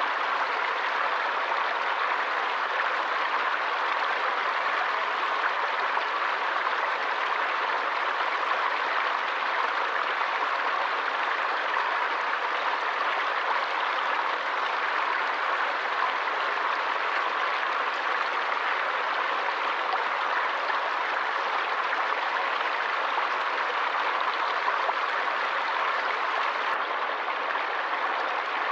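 Forest stream running steadily: an even, unbroken rush of flowing water.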